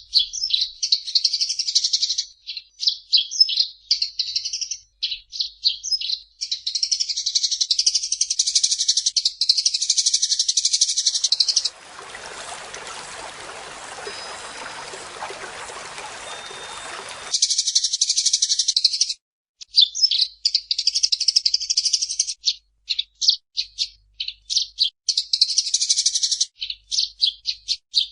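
Eurasian tree sparrow chirping in a fast, chattering run of high, sharp chirps. About halfway through the chirping gives way to roughly five seconds of steady hiss, then resumes.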